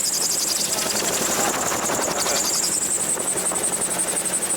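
Gyroplane rotor beating in autorotation with open-cockpit wind rush, a rapid even pulsing, during a power-off descent.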